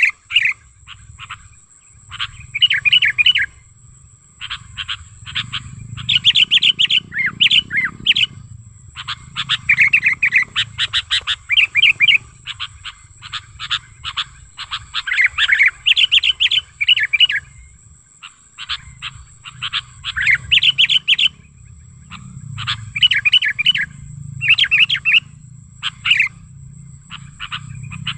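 Sooty-headed bulbul (kutilang) singing in loud, rapid chattering bursts of chirps, a phrase every second or two with short pauses between.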